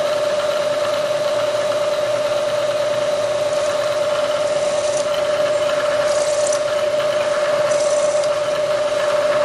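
Machine tool running with a steady whine while cutting the throttle-shaft holes in a Porsche 911 MFI throttle body, with a few short bursts of high hiss midway through.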